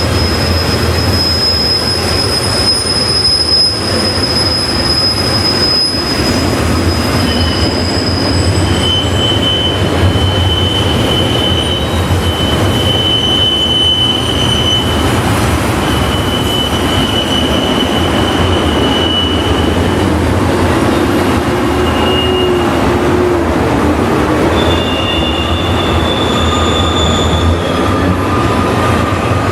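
Freight train cars rolling past with a steady rumble, their wheels squealing in long, high, held tones that come and go, one fading as the next begins.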